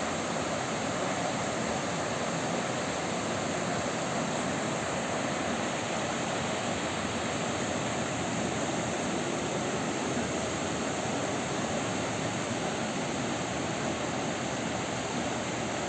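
Youghiogheny River rushing over rapids: a steady, even roar of flowing water.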